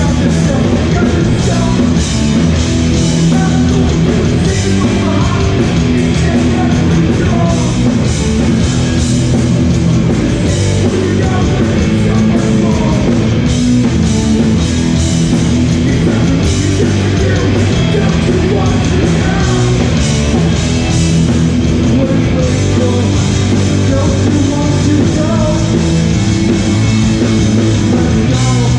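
Hardcore punk band playing live and loud, with distorted electric guitars, bass and drums driving steadily.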